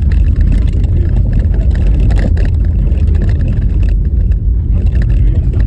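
Car driving over a rough, bumpy snow-covered road: a loud, steady low rumble of road and tyre noise, with scattered rattles and knocks from the jolting.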